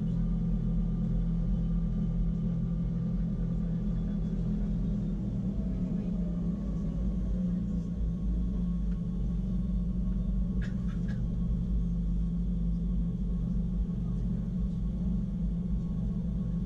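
Wengernalp Railway rack train running, heard on board: a steady low rumble and hum, with a couple of brief clicks about eleven seconds in.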